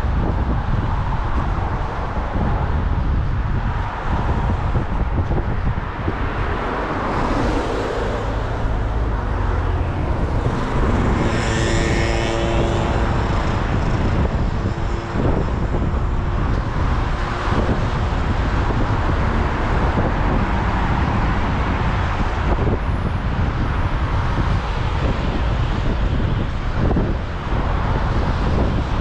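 City street traffic with cars passing steadily and a low rumble. About eleven seconds in, a pitched whine with several tones rises over the traffic for two or three seconds, then fades.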